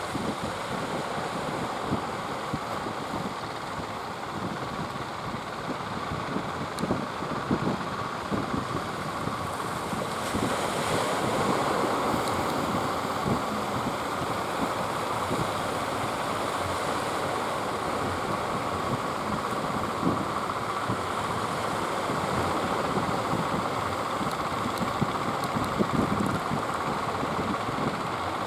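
Sea surf breaking and wind buffeting the microphone, with a boat engine running beneath; the sound grows louder about ten seconds in.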